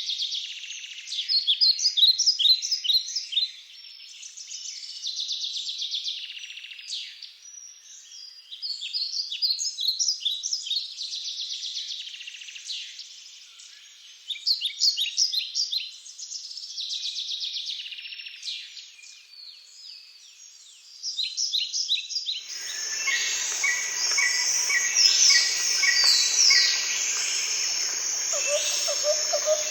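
Wild birds chirping and singing in repeated bouts of quick, high notes. About three-quarters of the way through, a fuller, steadier sound with held tones starts abruptly underneath the birdsong.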